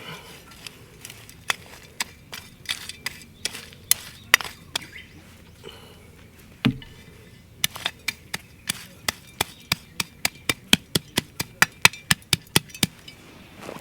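Chopping: sharp knocks, spaced out and irregular at first, then from about halfway a quick, steady run of about three to four strokes a second that stops shortly before the end.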